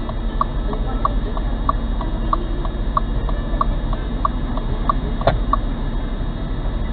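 A car's turn-signal indicator ticking steadily, about three clicks a second alternating loud and soft, over a low engine and road drone inside the car. There is one sharper click about five seconds in.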